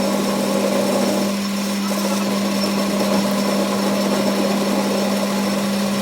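A workshop machine running steadily, with a constant hum and a steady whirring noise.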